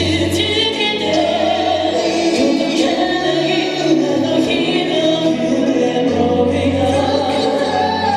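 K-pop boy band singing live over backing music, several voices together with a steady bass line underneath.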